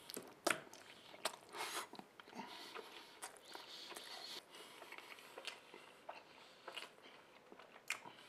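A person chewing a mouthful of pulled pork burger with cabbage slaw: soft, irregular mouth clicks and chewing noises.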